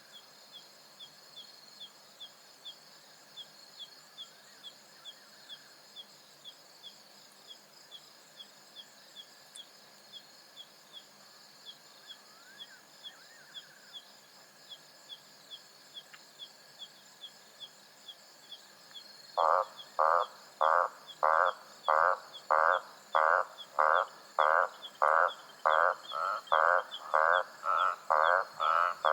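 Night savanna insects: a steady high trill with a regular chirp about twice a second. About two-thirds of the way through, a frog starts calling loudly, a croak repeated about one and a half times a second.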